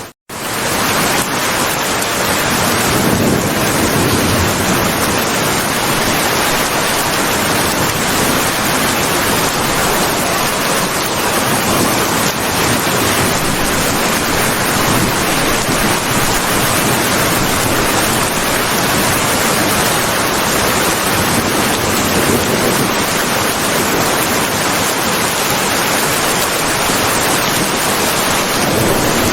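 Rain falling steadily in a dense, even hiss, with a split-second dropout right at the start.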